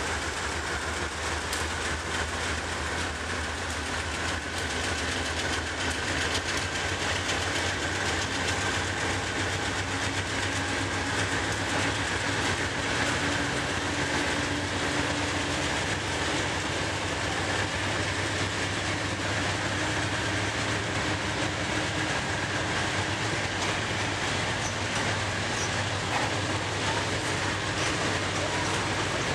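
Providence & Worcester freight train's hopper cars rolling past close by, steel wheels running over the rails with a steady rumble and clatter that holds even throughout.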